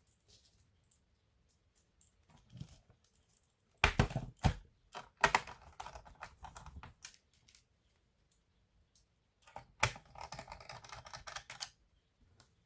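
Sharp plastic clicks and rattling from a laptop being handled, in two spells: a few hard knocks followed by rapid clicking, then a sharp knock near the end followed by another run of fast clicks.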